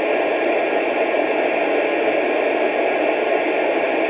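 Steady hiss of static from a two-way radio receiver with an open channel and no one transmitting. The noise is even and held to the middle range, as from a radio speaker.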